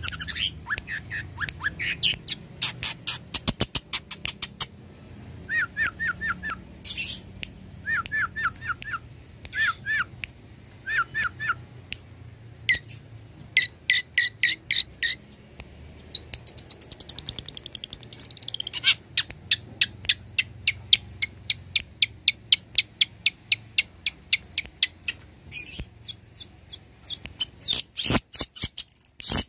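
Long-tailed shrike (cendet) singing a varied song of short chirps and repeated notes, including a fast, even chattering run in the second half.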